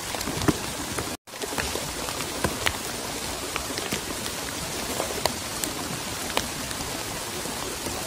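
Steady rain falling, an even hiss with many scattered sharp drop impacts. The sound cuts out for a moment about a second in.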